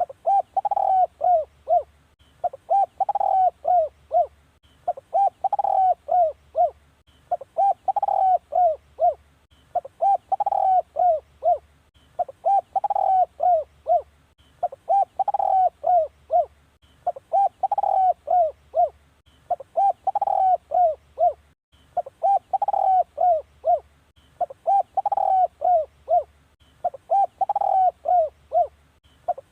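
Spotted dove cooing: a phrase of four or five short coos, repeated about every two and a half seconds. This is the male's advertising call, played as a decoy call to draw wild doves in.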